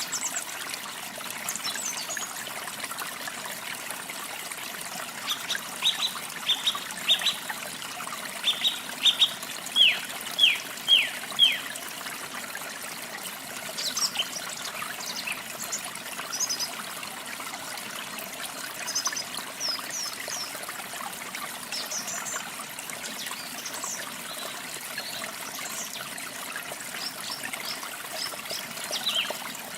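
Water trickling steadily, with small songbirds chirping over it. The loudest part is a quick run of about a dozen short, downward-sliding whistled notes between about six and twelve seconds in; scattered higher chirps come throughout.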